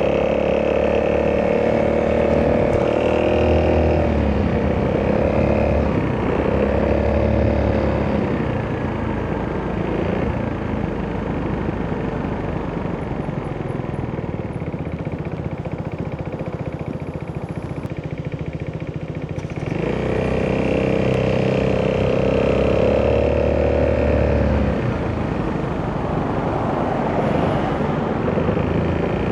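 Italjet Dragster 200's single-cylinder four-stroke engine through an Akrapovic exhaust, opening up and easing off several times while riding. It runs quieter through the middle, then pulls hard again about twenty seconds in.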